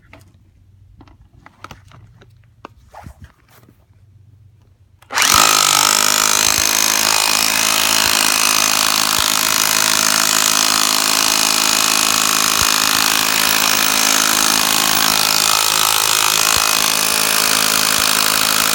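A few faint knocks and handling sounds, then about five seconds in a Hilti TE40 AVR rotary hammer starts and runs steadily at full power, hammering a half-inch ground rod into the ground through a rod-driving attachment.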